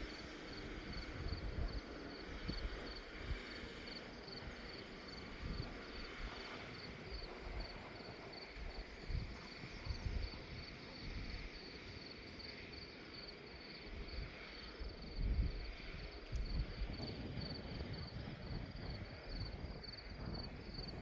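Wind gusting on the microphone in irregular low rumbles, with an insect chirping in an even, rapid high-pitched pulse.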